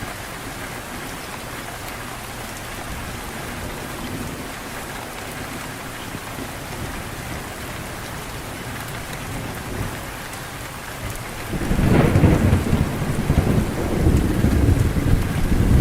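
Steady rain falling, then about three-quarters of the way in a loud low rumble of thunder sets in and rolls on to the end.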